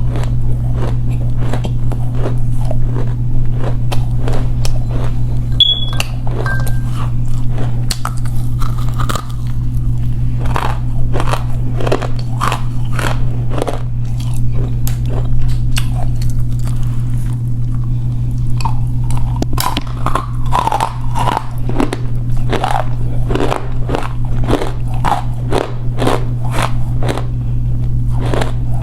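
Close-miked biting and chewing of edible clay: dry, crisp crunches following one another several times a second, over a steady low hum.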